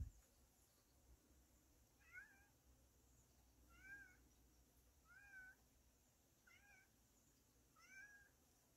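Domestic cat meowing five times, short faint meows about every one and a half seconds. The cat is uneasy.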